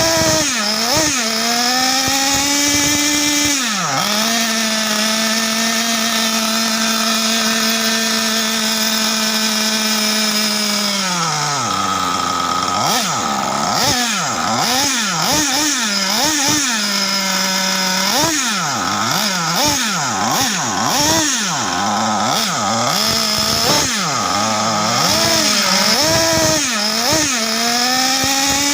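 Small nitro RC car engine at high revs, its whine held high for several seconds, dropping about eleven seconds in, then rising and falling again and again as the throttle is worked and the car runs back and forth.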